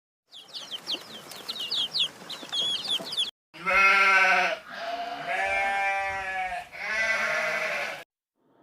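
A run of quick high chirps, then three long, wavering bleats from livestock, the second and third each a second or more long.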